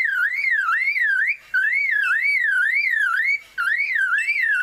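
Superb lyrebird mimicking a car alarm: a loud warbling tone that sweeps up and down about twice a second, in phrases broken twice by brief pauses.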